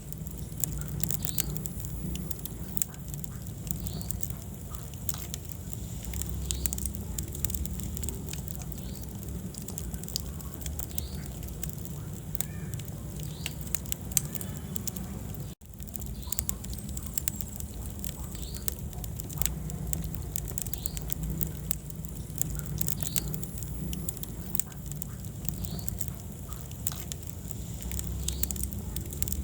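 Wood fire crackling and popping in a fireplace: frequent sharp snaps over a steady low rumble of flames. The sound drops out for an instant about halfway through.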